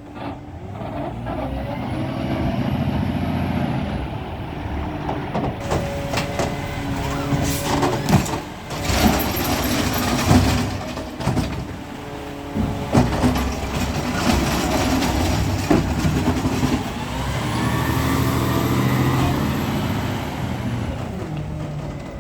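Peterbilt 520 McNeilus ZR garbage truck's diesel engine revving up and back down twice, with sharp metal clanks and bangs between the revs.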